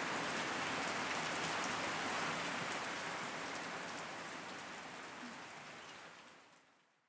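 Steady rain falling, with scattered drop ticks, fading out over the last few seconds.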